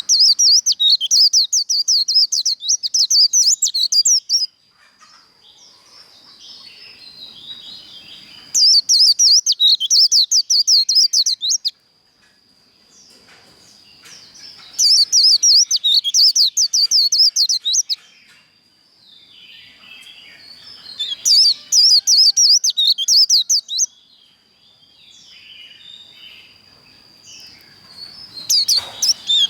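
White-eye (vành khuyên) singing its rapid 'líu' contest song in repeated bursts of fast, high twittering, each about three seconds long, about five in all. Softer chirps and a thin, steady high whistle fill the gaps between bursts.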